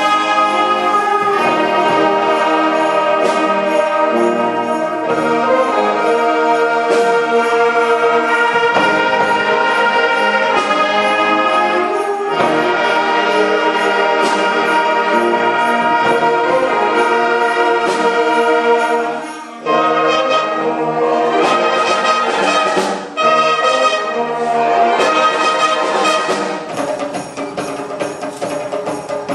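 A school wind band plays with the brass to the fore, holding full sustained chords. The sound drops out briefly twice, about two-thirds of the way through.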